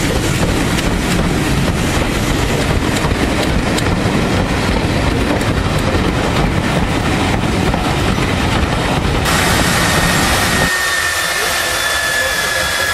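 Passenger coaches of a passing train rolling by, wheels clicking over rail joints with a steady rushing noise. About ten seconds in, the sound changes abruptly to a steady hiss with a faint high tone slowly falling in pitch.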